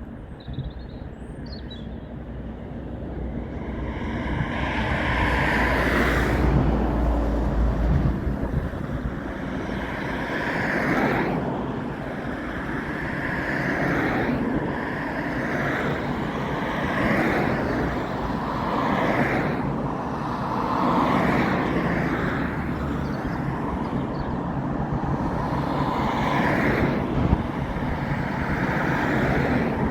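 Airliner jet engines on final approach, passing low overhead: the noise builds over the first few seconds, then stays loud with slow swells.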